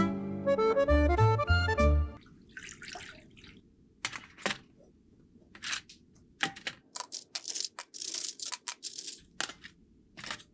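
Accordion music that stops about two seconds in, followed by scattered small sharp clicks and short scraping sounds at irregular intervals, with quiet gaps between them, from hand work on a diecast model car.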